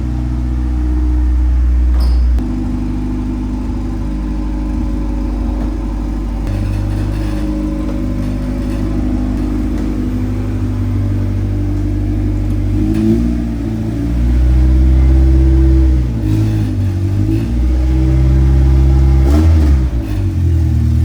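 Honda CRX Si race car's engine running as it warms up after a cold start, the revs stepping up and down several times.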